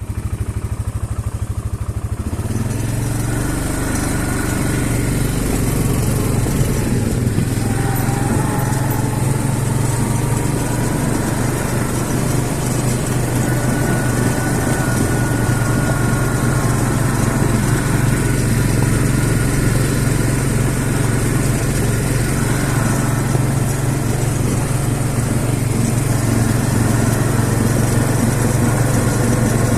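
CFMOTO CF 500 ATV engine running steadily, getting louder and fuller about two seconds in, then holding an even note.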